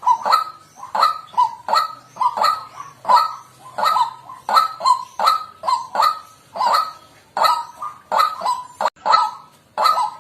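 White-breasted waterhen calling over and over, short honking calls repeated about twice a second in a steady run.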